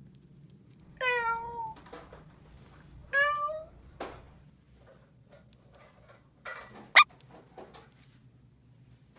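Two cat meows about two seconds apart, each sliding slightly down in pitch, followed by light clicks and knocks and one sharp click about seven seconds in, the loudest sound.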